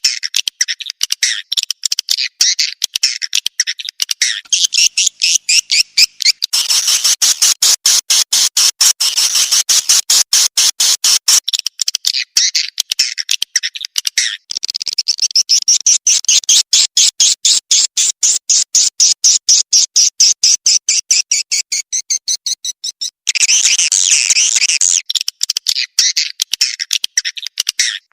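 Recorded swiftlet calls played as a lure sound: rapid, high chittering pulses, many a second, repeating without pause.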